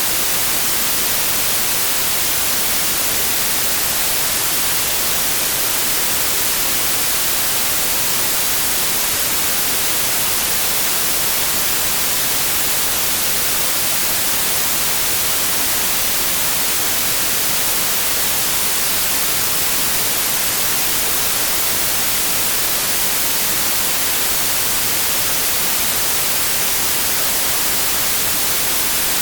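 Steady white noise: an even, unbroken hiss with no changes.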